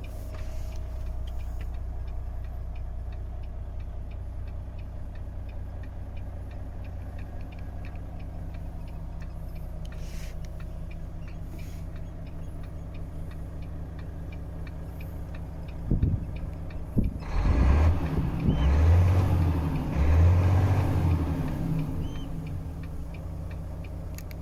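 Volvo FH13 truck's 13-litre six-cylinder diesel idling steadily, then revved in a few short blips about two-thirds of the way in before dropping back toward idle.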